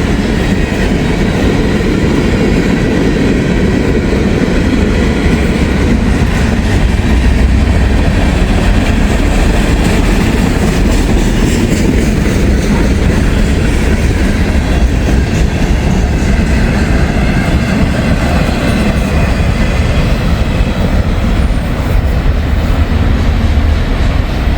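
The last cars of a long freight train rolling past: a steady, loud rumble of steel wheels on the rails.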